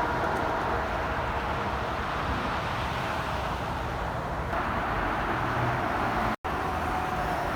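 Steady interstate highway traffic: trucks and cars passing with a continuous rush of tyre and engine noise, broken by a split-second dropout near the end.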